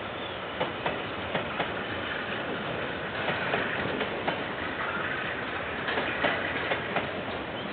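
Freight train of container wagons rolling past, a steady rumble with irregular clicks from the wheels on the track.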